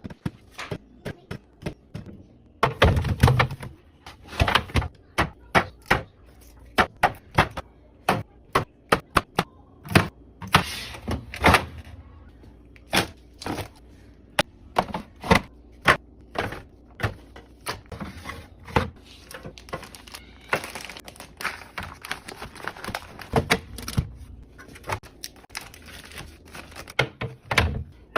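Food containers and packages being set down and arranged in a fridge: an irregular run of clicks, taps and thunks of plastic and glass on shelves.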